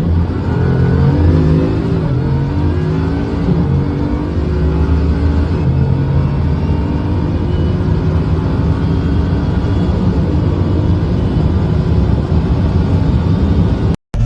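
High-performance car engine accelerating hard through the gears. The pitch climbs, drops at each shift and climbs again, with the climbs growing longer in the higher gears. The sound cuts off abruptly near the end.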